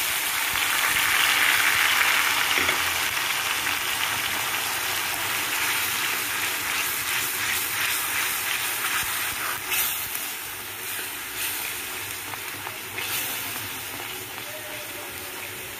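Onion and tomato paste sizzling in hot mustard oil in a kadai, stirred with a spatula. The sizzle is loudest at first and slowly dies down.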